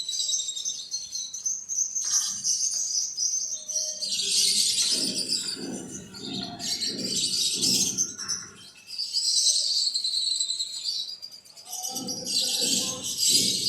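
Small birds chirping and twittering in dense bursts over a steady insect trill. A low rhythmic shuffling sound, about two or three strokes a second, runs under the chirps in the middle and near the end.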